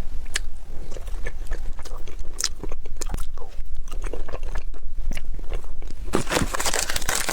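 Close-miked eating: someone biting and chewing food, with many small irregular mouth clicks.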